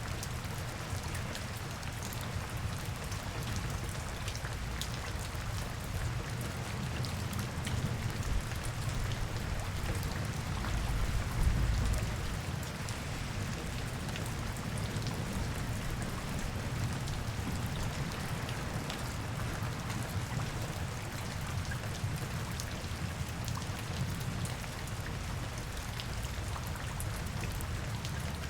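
Steady rain with many small drop ticks over a low rumble, which swells briefly about eleven seconds in.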